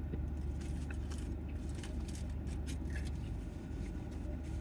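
Person chewing food, with small irregular clicks scattered throughout, over a steady low rumble of road vehicles.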